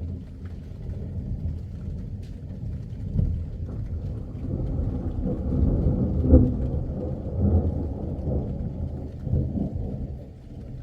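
Rolling thunder: a low rumble that builds over several seconds, peaks about six seconds in and dies away near the end.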